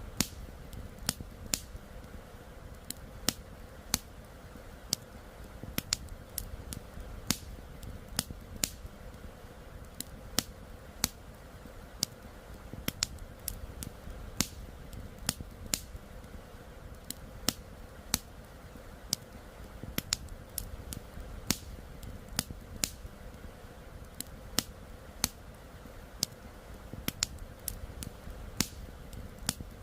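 Campfire crackling, with sharp irregular pops and snaps of burning wood, over a steady rush of flowing river water.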